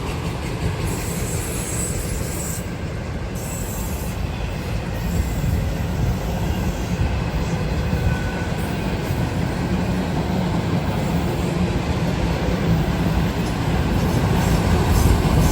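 Freight train cars rolling past slowly, a steady rumble of wheels on rail with a faint squeal of wheels, growing a little louder toward the end.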